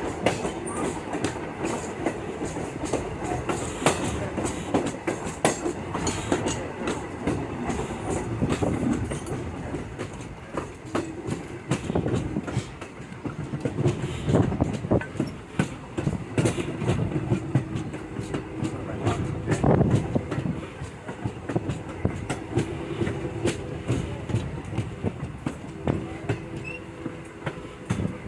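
Heritage railroad passenger car rolling along jointed track: steady wheel rumble with frequent clicks and clacks over the rail joints, and a thin steady squeal that joins about halfway through.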